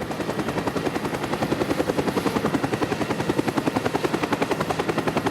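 A rapid, even chopping sound of about ten beats a second, steady throughout, like a helicopter's rotor.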